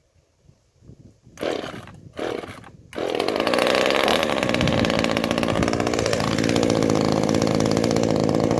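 Ozito 25cc two-stroke chainsaw (a Zenoah G2500 clone) pull-started: two short rasps of the starter cord, then the engine catches about three seconds in and keeps running steadily, freshly tuned.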